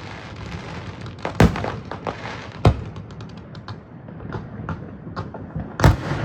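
Fireworks going off: sharp bangs about a second and a half in, near the middle and near the end, with a quick run of smaller crackling pops just after the middle one.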